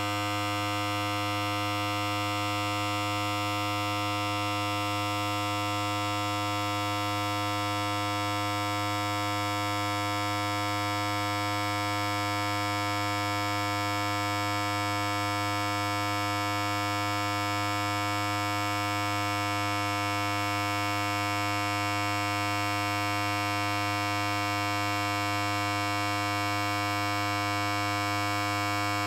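Electric hair clipper running continuously, a steady low buzz with many overtones that does not change.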